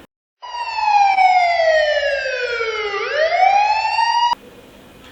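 Toy police car's electronic siren: one clean wailing tone that slides slowly down in pitch, sweeps back up and then cuts off abruptly.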